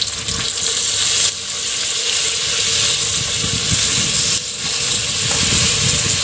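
Sliced onions, green chillies and freshly added tomato pieces sizzling as they fry in the inner pot of a Geek Robocook electric pressure cooker: a loud, steady hiss.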